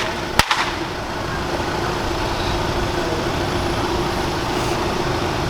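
Car engine running at idle: a steady rumble with a constant hum, and a single sharp click just under half a second in.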